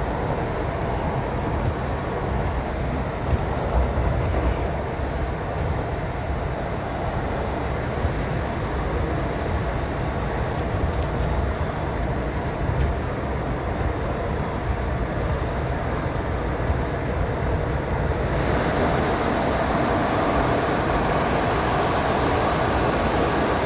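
Steady rumble of a moving train heard from on board, wheels running on the rails. It grows a little louder and brighter about eighteen seconds in.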